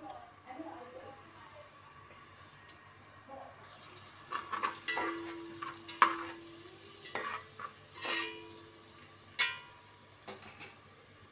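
Ginger-garlic paste and onions sizzling as they fry in oil in a metal pot, with a metal spoon scraping and clinking against the pot as it stirs. The sizzle picks up a little before four seconds in, and the sharpest clink comes about six seconds in.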